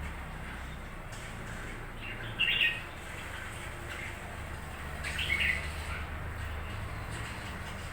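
Red-whiskered bulbul calling: two short phrases, about two and a half seconds in and again about five seconds in, over a steady low hum.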